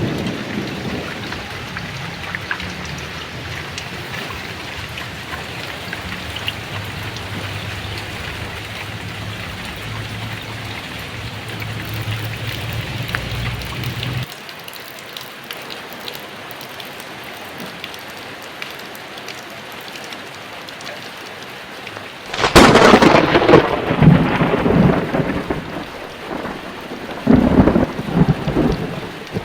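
Heavy rain falling steadily with thunder. A low rumble of thunder under the rain stops abruptly about halfway, and then two loud thunderclaps break in near the end, the first the louder.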